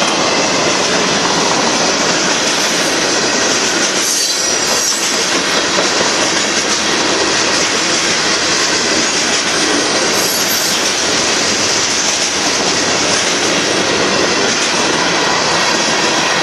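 Union Pacific manifest freight train rolling past, a steady loud rush and rumble of steel wheels on the rails.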